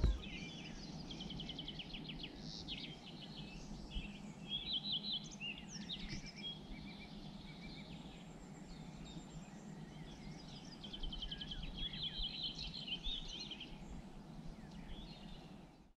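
Small songbirds chirping and singing in quick repeated trills over a faint steady background noise. The sound cuts off just before the end.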